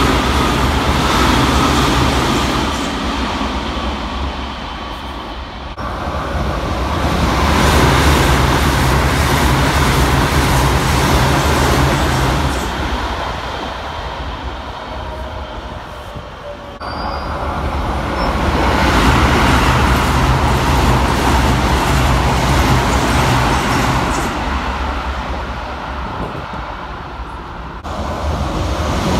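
Commuter trains running through the station without stopping, at about 110–120 km/h, one after another in separate takes: each pass swells to a loud rush of wheels on rail and fades away. The sound cuts off abruptly between takes three times; the first pass is a Hokuso 7300 series train going by, and the last a Keikyu 2100 series train approaching.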